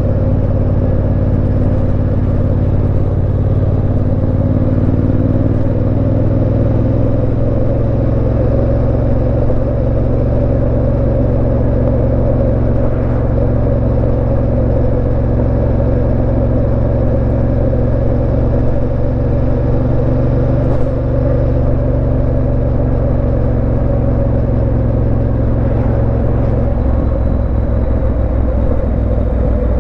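Yamaha Ténéré 700's parallel-twin engine running at a steady cruise, ridden and heard from the rider's position. Its note shifts slightly about a quarter of the way in and again near the end.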